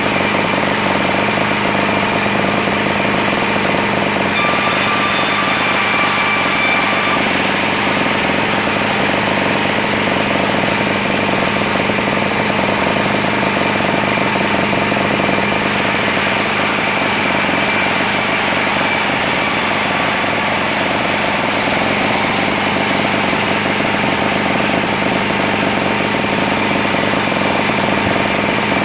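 Sawmill running steadily: a loud, continuous mechanical drone of engine and saw, with a faint higher whine coming in about four to seven seconds in.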